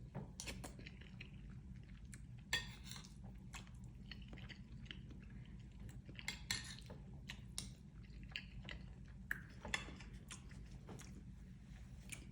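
A spoon clinking and scraping against a bowl, with quiet chewing, as someone eats a bowl of chicken gumbo. The clicks come at irregular intervals throughout.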